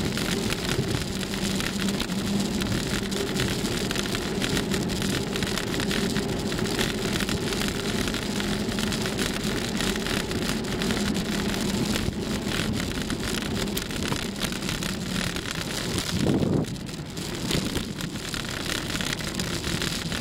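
Steady rushing, crackling ride noise from a moving bicycle, with a low steady hum under it. A brief louder swell comes about sixteen seconds in, and the noise is a little quieter after it.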